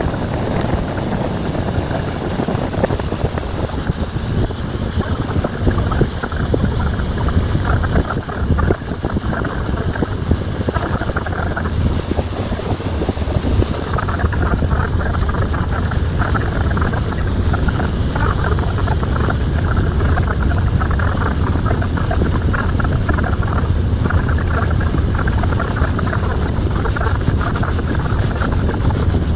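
Steady rumble and rush of a cruise boat under way, with wind buffeting the microphone on the open deck.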